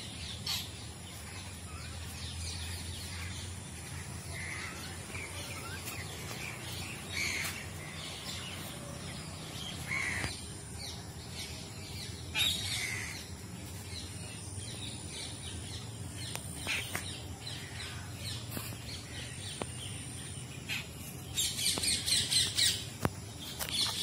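Several birds calling: scattered short calls and chirps, with a louder, rapid run of calls in the last two seconds or so.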